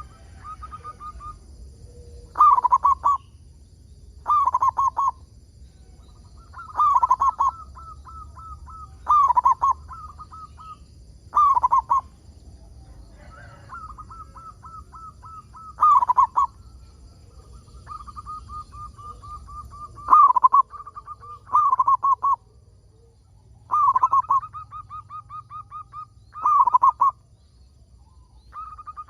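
Zebra dove (perkutut) singing: loud cooing phrases repeated about every two seconds, with runs of quick short notes between them.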